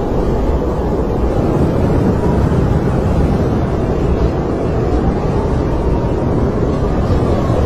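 Snowstorm wind blowing hard and steadily, with a faint howl that wavers up and down in pitch, most noticeable near the end.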